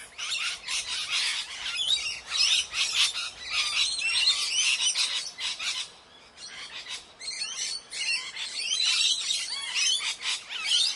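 Parrots chattering and squawking, with many quick overlapping chirps and harsh calls. The calls thin out briefly a little past the middle, then pick up again.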